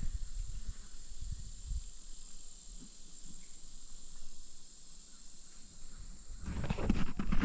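Steady high-pitched drone of insects (cicadas or katydids-type chorus) in the trees around the lake, with low rumbling and light handling knocks underneath; louder clattering sound starts about six and a half seconds in.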